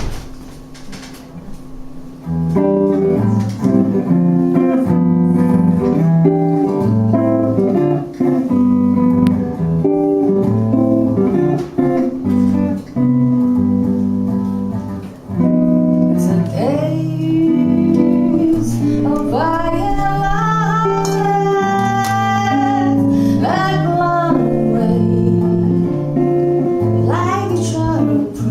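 Live band music starting about two seconds in: an instrumental introduction with guitar over held low notes, and a higher lead melody with gliding notes in the middle.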